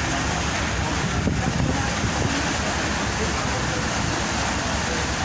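Steady wind and water noise with a low rumble, as heard aboard a moving ship.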